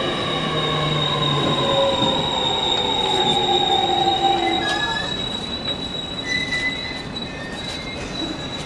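Sobu Local Line electric commuter train braking into the station, its motor whine falling in pitch with wheel squeal. The falling tones fade out about five seconds in as the train slows to a stop, leaving a steady high whine and brief squeals.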